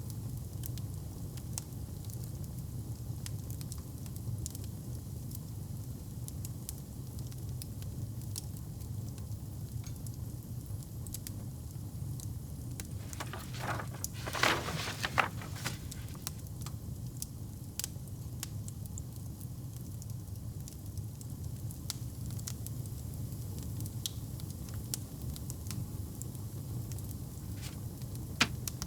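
Fireplace fire burning with a steady low rumble and scattered crackles, and a short cluster of louder pops about halfway through.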